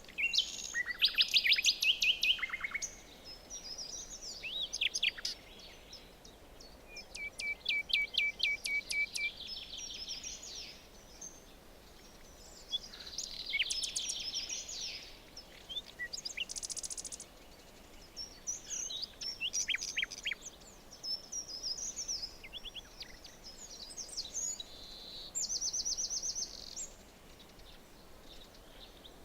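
Several songbirds singing in a forest, with a phrase every few seconds: fast trills and quick rising and falling chirps over a faint steady background hiss.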